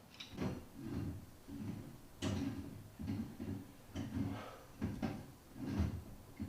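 Irregular series of soft thuds and knocks, some with a sharp click, about one a second.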